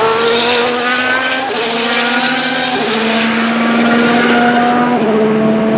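A Formula 1 car's turbocharged V6 hybrid engine running hard at high revs. Its pitch changes in sudden steps at gear changes about a second and a half, three and five seconds in.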